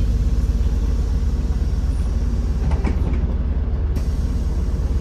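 MAZ-203 city bus heard from inside the passenger cabin: the engine's steady low drone while riding, with a couple of short rattles or clicks about three and four seconds in.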